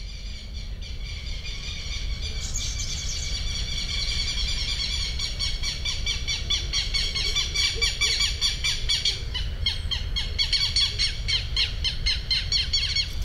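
Birds chirping in a dense chorus of quick high calls, growing louder over the first few seconds, over a low rumble.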